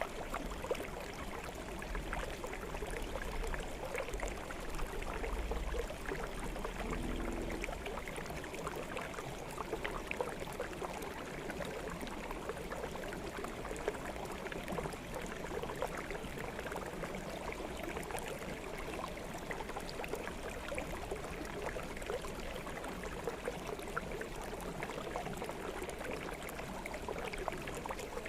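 Shallow forest stream flowing steadily, water gurgling and trickling over stones.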